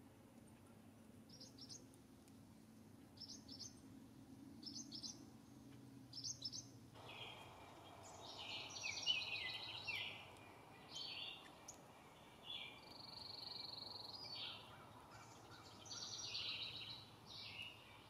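Songbirds calling outdoors. First come short, high, paired chirps about every second and a half over a faint low hum. About seven seconds in the background changes, and louder, varied birdsong with chirps and a held trill begins.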